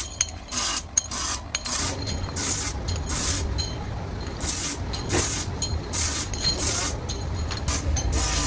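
Factory machinery in a brake shoe works: short hissing, rasping strokes repeat irregularly about once or twice a second over a steady low rumble that grows about two seconds in.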